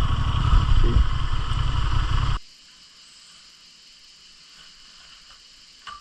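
Motorcycle engine running with a heavy low rumble, cutting off abruptly about two and a half seconds in. What remains is a steady, much quieter chorus of insects chirping.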